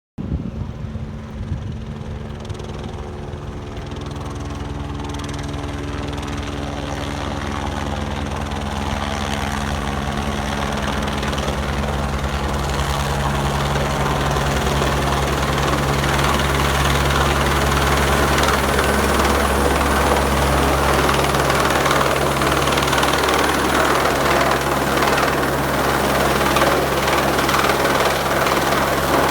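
Helicopter rotor and engine running steadily, growing gradually louder over the whole stretch.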